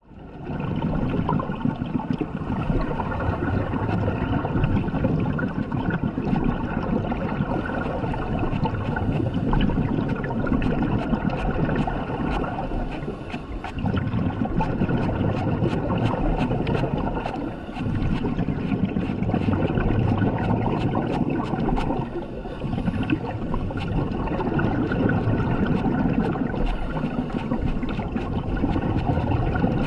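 Underwater sound of scuba regulator breathing: a rushing, bubbling sound that swells and eases in cycles a few seconds apart, with scattered faint clicks.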